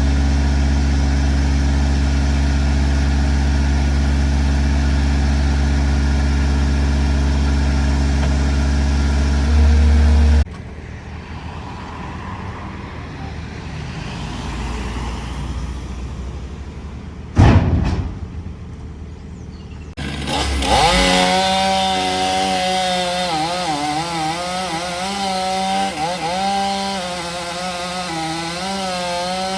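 A heavy diesel engine runs steadily with a deep hum, then cuts off suddenly. A quieter stretch follows with one brief loud burst. A chainsaw then starts up, its pitch rising and falling as it works through wood.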